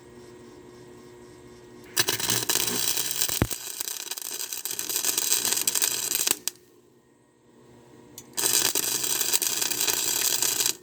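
Electric welding arc crackling on thin scrap pipe in two passes, about four seconds and then about two and a half seconds, with a pause between.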